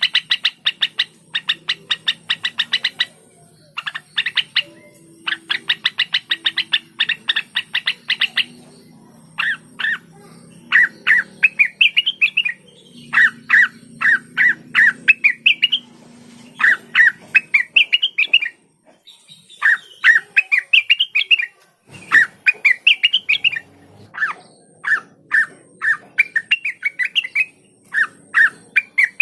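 Cucak wilis (leafbird) singing: fast stuttering runs of chattering notes for the first several seconds, then repeated short rising whistled phrases with brief pauses between them.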